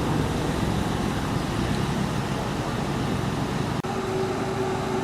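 Steady outdoor rumble of vehicle noise, with a brief sudden dropout just under four seconds in.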